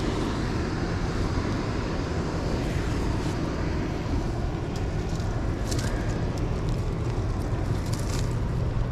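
Steady low drone of a towboat's engines pushing a barge on the river, with a few small clicks and rustles over it.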